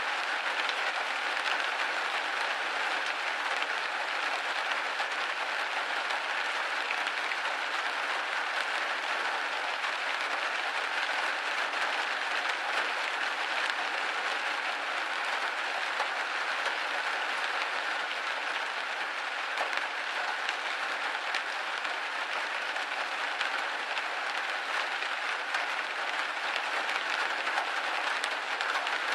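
Steady rain pattering on a window pane, a dense even patter of countless drops with no let-up.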